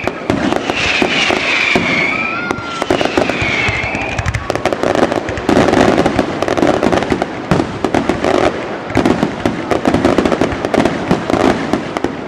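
Fireworks display going off in a dense barrage of bangs and crackles. Whistling pitch glides sound over the bangs in the first few seconds.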